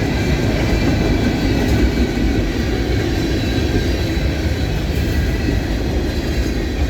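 Cars of a Norfolk Southern mixed freight train rolling past close by: a steady rumble and rattle of steel wheels on the rails.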